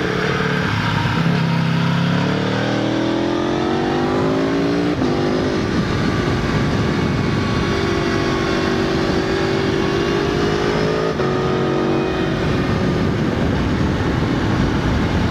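Aprilia Tuono V4 motorcycle engine accelerating hard, its note climbing in pitch and then dropping sharply at an upshift about five seconds in. It rises again until another shift about eleven seconds in, after which the steady note gives way to a rougher, noisier sound.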